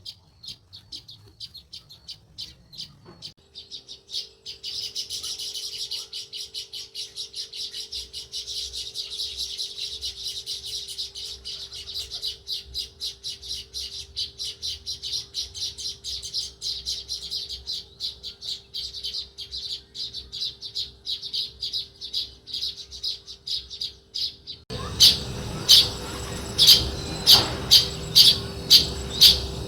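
House sparrows chirping in a fast, unbroken run of short high chirps, several a second. About 25 seconds in the chirping becomes suddenly louder and closer.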